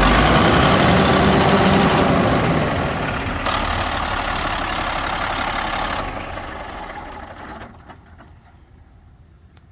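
Diesel engine of a 2000 Peterbilt 378 truck tractor idling steadily, the sound fading and then dropping away near the end.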